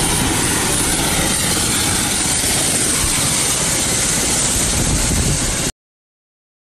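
Helicopter running, a loud steady rotor and engine noise that cuts off suddenly near the end.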